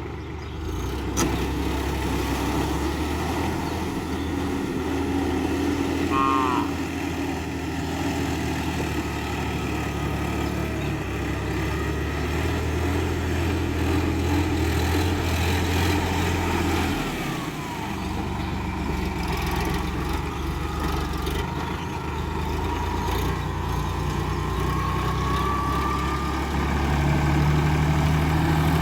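Diesel engine of a Sonalika Worldtrac 60 RX 4WD tractor running steadily while working a rotary tiller. Its pitch shifts a few times and rises near the end.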